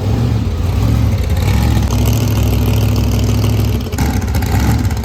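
Car engine and exhaust running with a steady low drone under light load, easing slightly about four seconds in.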